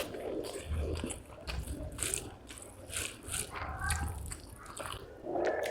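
Close-miked eating of rice and spicy fish curry: wet chewing and lip-smacking, with irregular short smacks several times a second.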